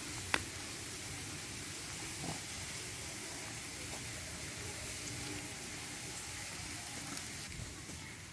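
River water rushing steadily, with one sharp click shortly after the start.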